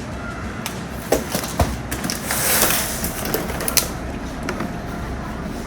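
Scattered light clicks and knocks and a brief rustle about two seconds in, over a steady low hum: food packages and containers being handled during fridge organizing.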